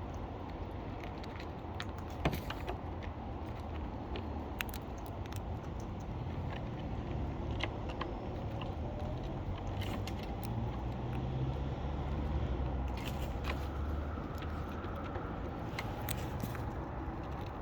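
Scattered sharp clicks and cracks of a parrot husking sunflower seeds in its beak, over a low steady rumble.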